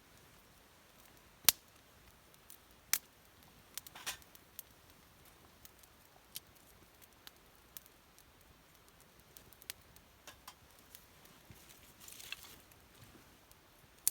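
Wood campfire crackling: scattered sharp pops and snaps at irregular intervals, the loudest about a second and a half in, with a short flurry of crackles near the end.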